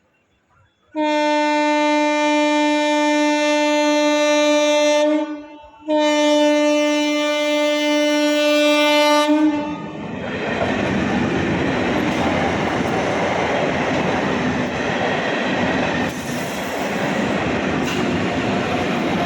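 Katwa–Sealdah local train sounding two long horn blasts, each about four seconds with a short break between, then running past a level crossing at speed with a loud, even rumble and clatter of wheels and cars.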